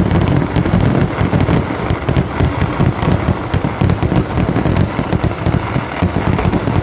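Kerala temple fireworks (vedikettu) going off as a dense barrage: a continuous rapid run of bangs and cracks, too fast to count, over a deep rumble.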